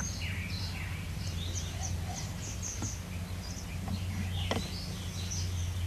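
Small birds chirping repeatedly in short high calls over a steady low hum, with a couple of faint sharp clicks.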